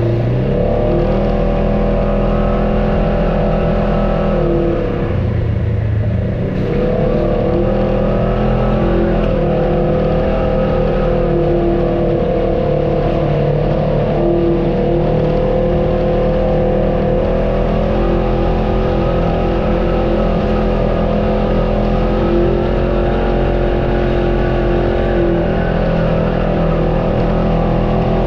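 Off-road vehicle engine running under load while crawling the trail, its pitch rising and falling with the throttle and dipping briefly about five seconds in.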